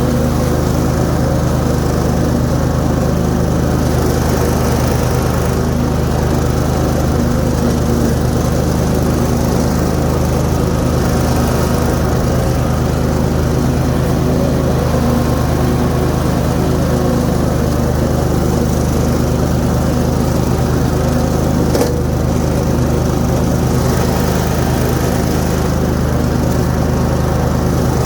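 Zero-turn riding mower's Kohler Pro 25 V-twin engine running steadily at working speed with the 50-inch deck's blades cutting grass. One short click partway through.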